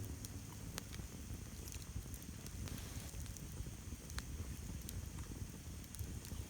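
Campfire crackling, with sharp pops scattered irregularly over a low steady rumble.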